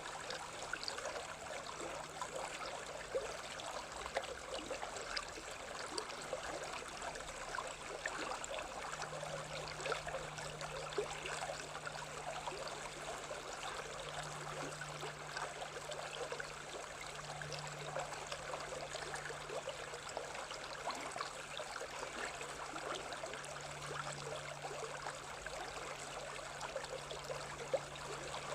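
Stream water running: a steady rushing with many small splashes and trickles.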